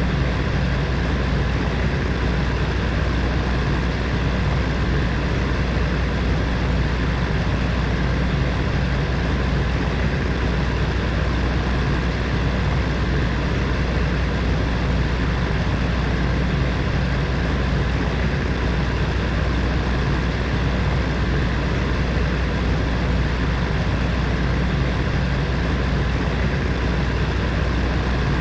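Space heater's fan running steadily: a continuous whoosh of air over a low motor hum, with no change.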